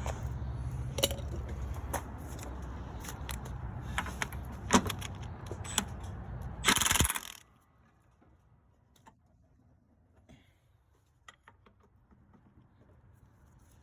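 Metal tools and sockets clinking against each other and against the truck's hardware, over a steady low running hum. About seven seconds in a loud hiss lasts about half a second and the hum cuts off suddenly; after that it is quiet apart from a few light clinks.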